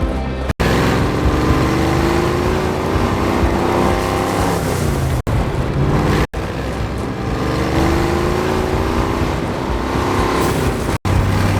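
Loud vehicle engine running, its pitch sliding slowly up and down, with four brief drop-outs where the sound cuts off for an instant.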